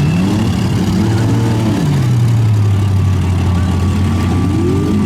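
Pickup truck engines running in a demolition derby. One engine revs up in the first second, drops back about two seconds in, holds a steady low note, then revs again near the end.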